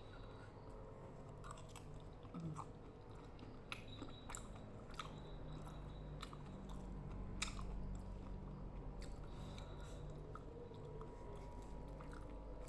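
Close-up chewing of a mouthful of rujak (lontong, cucumber and raw vegetables in sambal), with scattered crisp crunches and wet clicks of the mouth.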